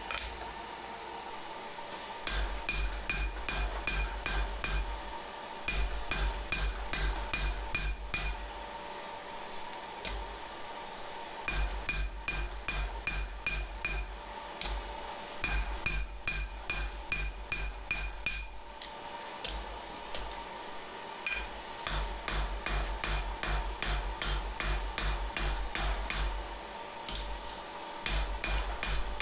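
Hand hammer forging a steel flat bar on an anvil: runs of quick blows, about four a second, broken by short pauses, with a ring from each strike, over a faint steady hum.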